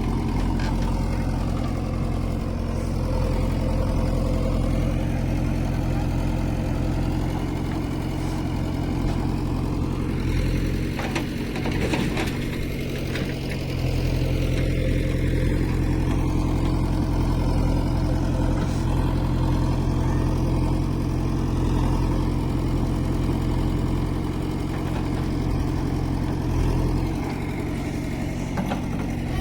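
Diesel engine of heavy farm or earthmoving machinery running steadily at idle, with a brief rougher, louder patch around the middle.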